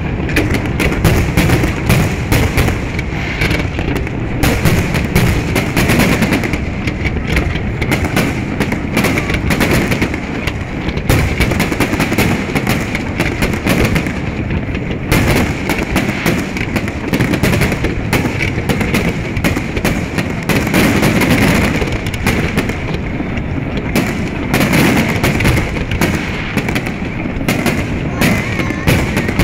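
Fireworks display: aerial firework shells bursting in a dense, unbroken barrage of bangs and crackle.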